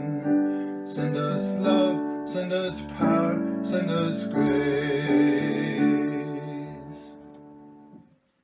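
Acoustic guitar music with steady chords and picked notes, closing on a final chord that rings out and fades to silence near the end.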